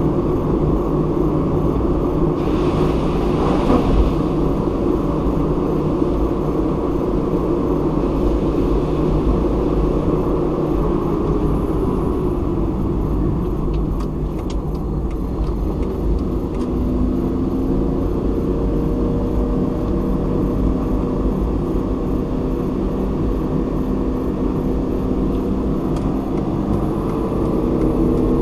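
Car driving along a road: steady engine hum and tyre rumble, with the engine note shifting slowly in pitch in the second half, and a brief hiss about three seconds in.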